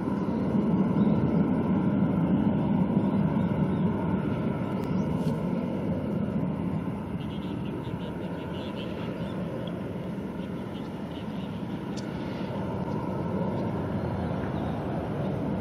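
Jet engines of a Boeing 777 airliner on final approach, a steady rumble with a faint whine, loudest in the first few seconds and easing off after that.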